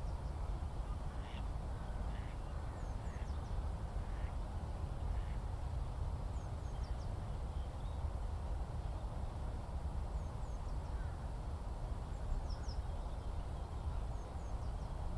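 Open countryside ambience: a steady low rumble with a few faint short bird calls in the first few seconds and scattered thin high chirps throughout.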